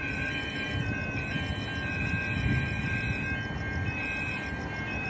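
Train running past: a steady low rumble, loudest about halfway through, with a thin steady high whine over it.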